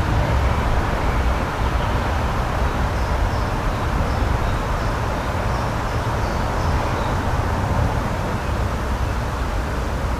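Steady rushing outdoor noise with a deep rumble underneath, with a few faint, high, short chirps in the middle.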